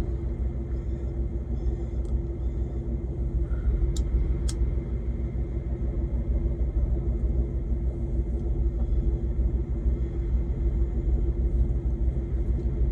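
Semi-truck diesel engine idling with a steady low rumble. Two faint clicks come about four seconds in.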